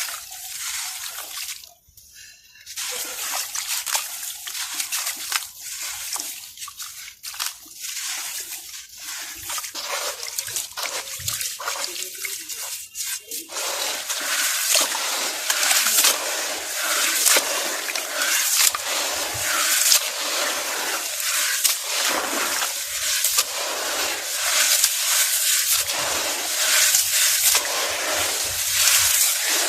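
Grainy, dusty mug shapes crumbling and breaking apart in water, with crackling, trickling and sloshing. The crackle gets louder and denser about halfway through.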